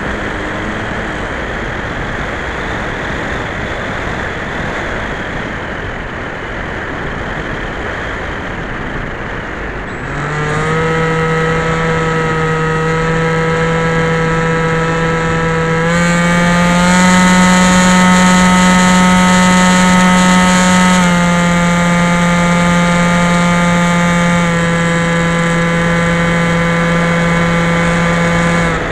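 Electric motor and propeller of a Skyhunter FPV plane, heard from on board: first a rush of wind with the motor low, then about ten seconds in the motor comes up to a steady whine, which steps up in pitch for a few seconds midway and settles back down.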